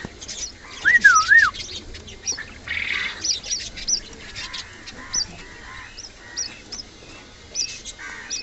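Young grey cockatiels and other small cage birds chirping: many quick high chirps, with one longer up-and-down whistled call about a second in.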